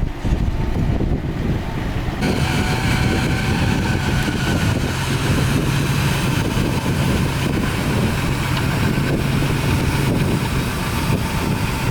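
Heavy diesel earthmoving machinery running steadily, its engine note becoming brighter and fuller about two seconds in, with wind noise on the microphone.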